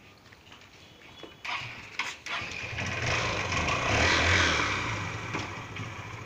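Hero Ignitor 125 cc single-cylinder motorcycle engine starting after two sharp clicks, briefly revving up, then settling back toward idle.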